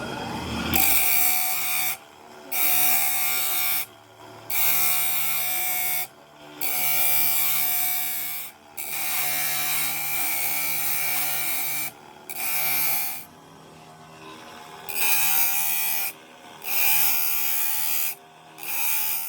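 A small electric power tool running in repeated bursts, about nine in all, each lasting one to three seconds and starting and stopping sharply, with a steady high whine over a hiss.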